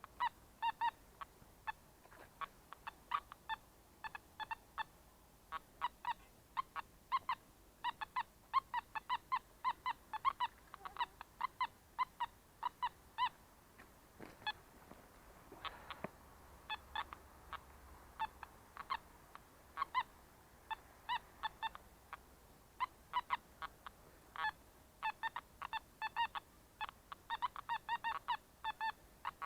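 Metal detector giving short, pitched beeps in quick, irregular runs as its coil is swept over the ground, with a sparser spell about halfway through.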